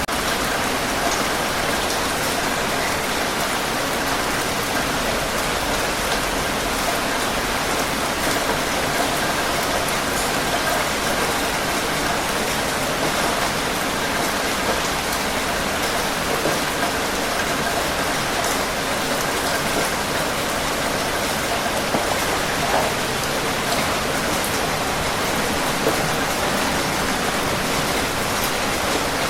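Steady rain falling and pattering on a surface, an even rushing hiss with scattered drop ticks.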